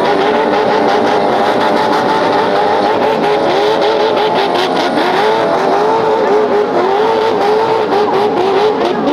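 Off-road 4x4 engine revving hard and held at high revs. From about three seconds in, the pitch dips and surges again and again as the throttle is worked, with a crackle of short knocks over it.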